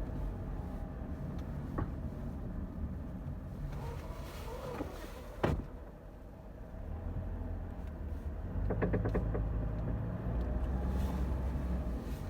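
2010 Toyota Corolla driven slowly through a left U-turn: steady low running rumble, a single sharp click about halfway through, then a quick run of clicks about two-thirds of the way in. The clicking is the turning noise from the left front drive axle, which the owner puts down to a worn CV joint.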